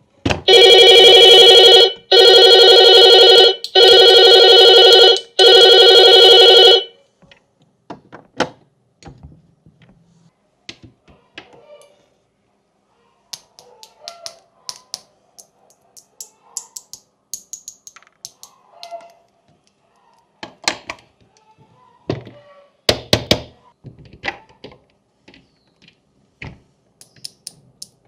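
An electronic sound module on a toy fidget board plays a ring-like tone four times, each about a second and a half long with short gaps. Then come scattered light clicks and taps as the board's buttons and parts are handled, a louder cluster of knocks about 21 to 24 seconds in.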